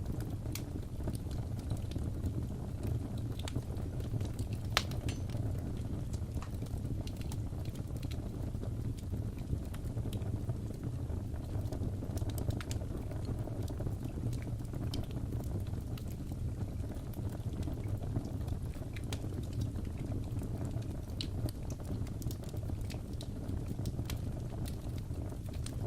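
Fire crackling in a fireplace: a steady low rumble with scattered sharp pops and crackles, one louder pop about five seconds in.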